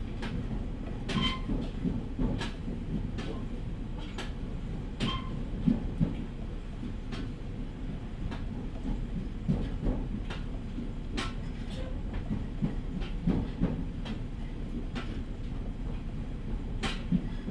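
JR East E501 series electric train running at reduced speed under a strong-wind restriction, heard from inside the car. A steady low rumble is broken by irregular clacks of the wheels over rail joints, a few of them with a short metallic ring.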